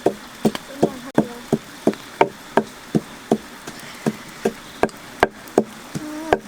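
Knife chopping on a wooden cutting board in a steady rhythm of about three strokes a second.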